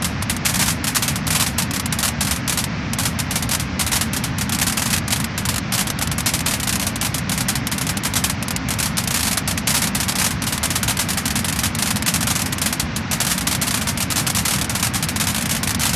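Wood-burning fire crackling and popping: a dense, continuous stream of small sharp cracks over a steady low rush of the flames.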